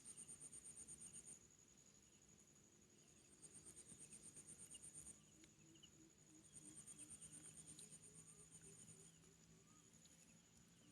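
Crickets chirping faintly in three bouts of rapid high-pitched pulses, each about two seconds long, over a steady high insect trill.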